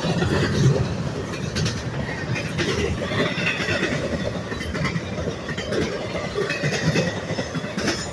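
A train's cars rolling past with a steady rumble, their wheels clicking over the rail joints and at times giving a faint high squeal against the rails.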